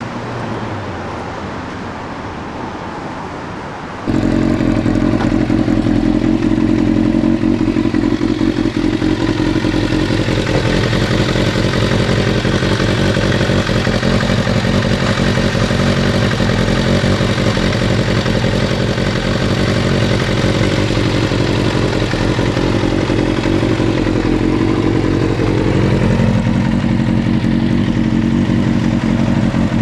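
Kawasaki ZRX400's inline-four engine idling through a WR'S aftermarket muffler. It is quieter for the first few seconds, then suddenly louder and steady. Near the end the engine speed rises a little and holds there.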